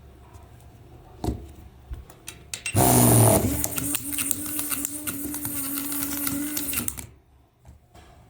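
A small electric motor in a toy whirs with a steady hum. It starts with a loud burst about three seconds in and cuts off suddenly about four seconds later, after a few clicks before it.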